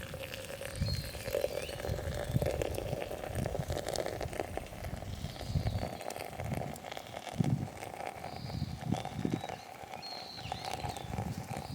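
Irregular low knocks and thuds with scattered clicks, like gear being handled or footsteps, with birds chirping faintly in the background.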